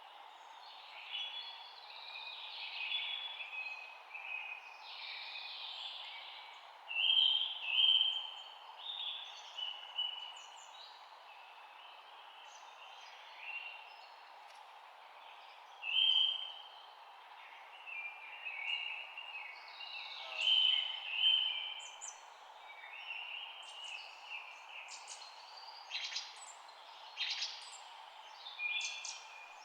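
Several birds chirping and singing in short repeated phrases over a steady background hiss. The calls come and go throughout, with louder bursts about 7–8 seconds in, again around 16 seconds, and around 20–21 seconds.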